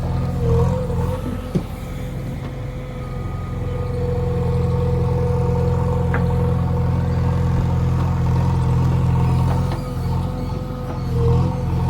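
Diesel engine of a JCB 3DX backhoe loader running steadily at work. It swells in loudness briefly about half a second in and again near the end, with a thin whine riding above the engine and one short click early on.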